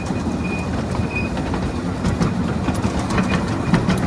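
A miniature ride-on railroad train running with a passenger aboard. The wheels give a steady rumble and scattered clicks and knocks over the track, with a faint thin high squeal at times.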